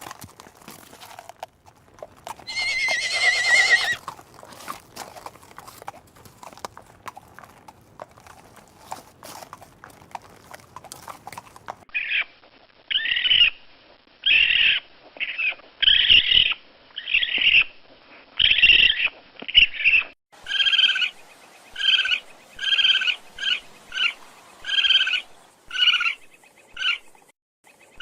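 A horse whinnies once, a loud wavering call about three seconds in. From about twelve seconds on, another animal gives a run of short, high, repeated calls, about one a second, then quicker.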